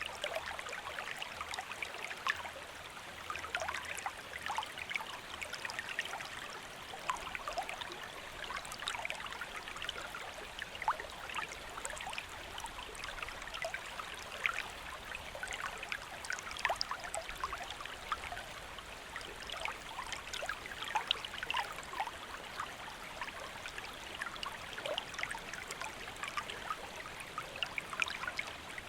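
A gently flowing stream: steady water rush with many small splashes and trickling plinks over it.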